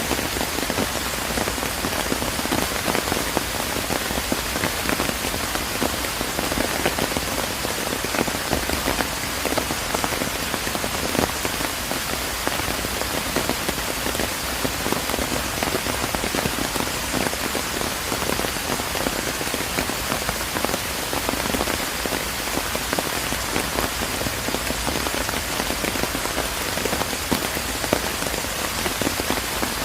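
Steady rain falling, a dense even hiss flecked with many separate drops ticking close by.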